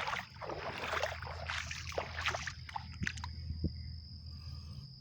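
Shallow creek water splashing and sloshing as someone wades barefoot and rummages through it by hand, busier in the first couple of seconds, then scattered drips and small splashes.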